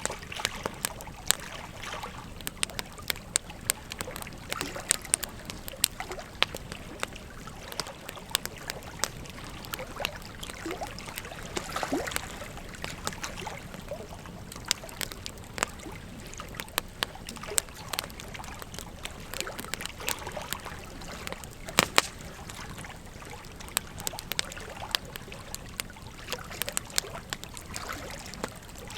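Bonfire crackling with frequent sharp pops, one of them louder about 22 seconds in, over the steady sound of a flowing river.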